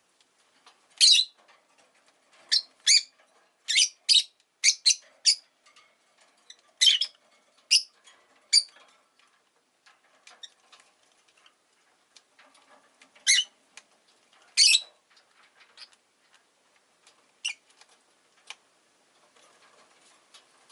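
Rosy-faced lovebird giving short, sharp, high-pitched chirps at irregular intervals, several in quick succession early on, then scattered single calls with pauses between.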